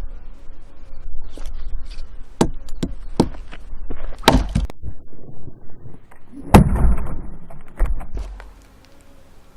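A blade chopping into firewood: a series of sharp whacks and knocks, the hardest about four and six and a half seconds in.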